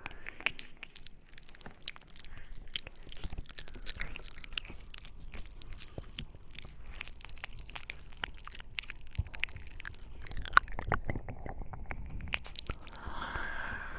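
Close-miked ASMR mouth sounds: many quick, irregular clicks and smacks of lips and tongue, a few sharper ones about two-thirds of the way in, and a soft breathy sound near the end.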